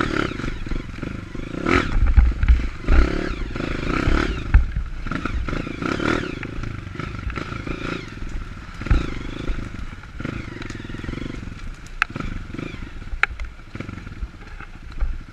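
Dirt bike's single-cylinder four-stroke engine revving up and down over rough trail, with two sharp knocks about twelve and thirteen seconds in.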